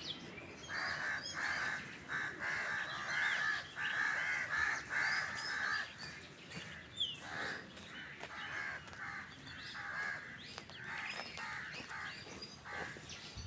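Several birds calling together: runs of short, harsh calls repeated a few times a second, loudest in the first half, with thin high chirps and gliding whistles over them.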